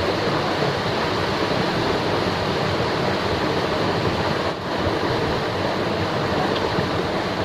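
Steady rush of moving water, with a brief dip about four and a half seconds in.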